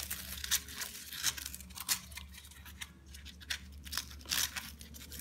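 Paper wrapping on a 36-shot firework cake being handled and torn by hand: short, irregular crinkling and tearing crackles.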